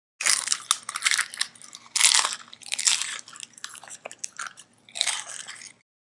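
Close crunching and chewing, a person eating, in a run of noisy bursts about five and a half seconds long that starts and stops abruptly.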